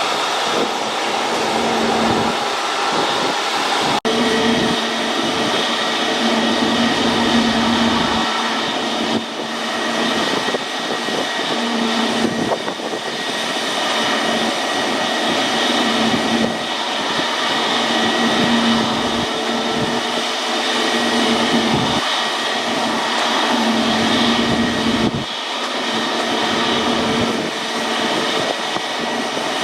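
Jet airliner engines running loud and steady, a dense rushing noise with a high, steady whine. The sound changes abruptly about four seconds in.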